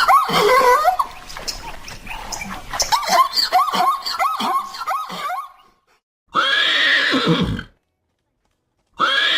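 A horse whinnying: a loud neigh about six seconds in, its pitch dropping at the end, and another starting near the end. Before that, a few seconds of quick, pitch-bending animal calls with clicks, from an unknown animal.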